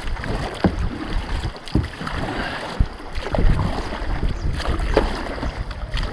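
Kayak paddles dipping and splashing in the water, a stroke every second or two, over wind buffeting the microphone.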